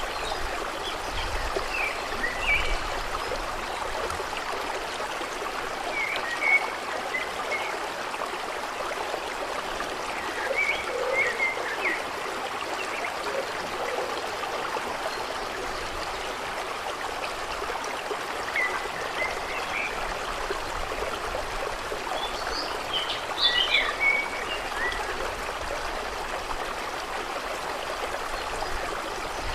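Steady rush and trickle of running water, with short clusters of small chirping animal calls breaking in now and then, most clearly about 6, 11 and 23 seconds in.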